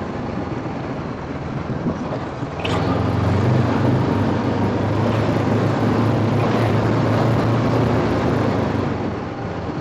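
Scooter engine running with wind rushing over the rider's helmet microphone; it grows louder about a quarter of the way in and eases off near the end.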